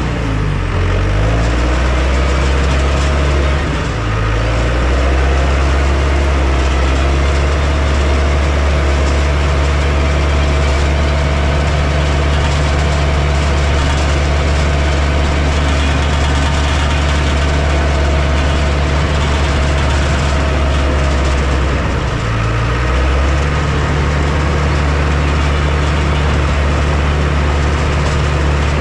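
Heavy construction machine's diesel engine running steadily, its pitch shifting in the first few seconds and again about 22 seconds in. A steady higher whine sits above it through the middle of the stretch.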